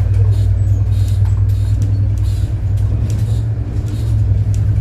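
City bus engine running with a steady low drone, with light rattles and clicks over it.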